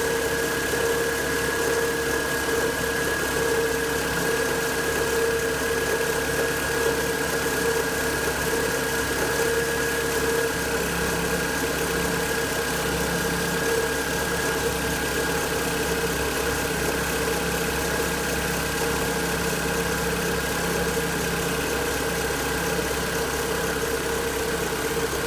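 Engine idling steadily, with a held whining tone over the running sound.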